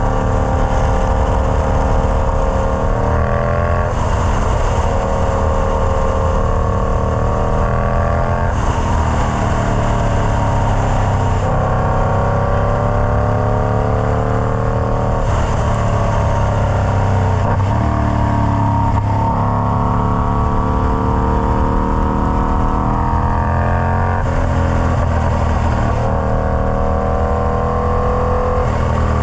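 Indian Scout Bobber's V-twin running through a Freedom Performance Combat 2-into-1 exhaust. Its pitch climbs gradually, then drops back, again and again every few seconds as the engine speed changes.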